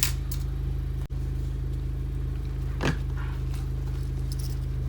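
Cardboard box being opened, with a few short scrapes and clicks at the start and near three seconds in, over a steady low rumble.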